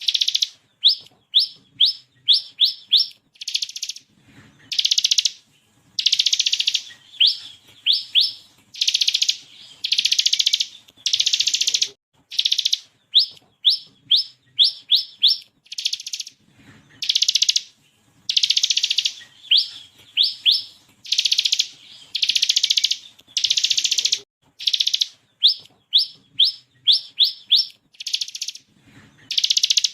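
Bar-winged prinia (ciblek kristal) singing: long buzzing rattles, each under a second, alternate with quick runs of four to six sharp upslurred notes.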